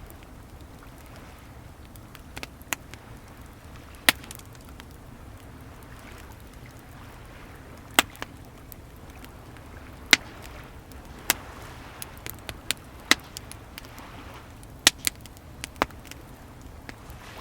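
Wood fire crackling, with sharp irregular pops, more of them near the end, over the steady wash of sea waves swelling and falling back.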